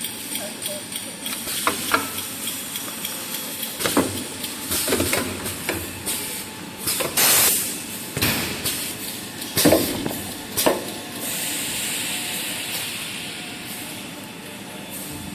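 Kitchen towel paper converting machinery running, with several sharp metal clanks and a loud burst of hiss about halfway through, then a steadier hiss that fades over the last few seconds.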